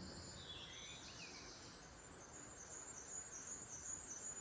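Faint outdoor nature ambience: insects trilling in a rapid high pulsing series that grows stronger in the second half, with a few short falling bird chirps in the first second or so.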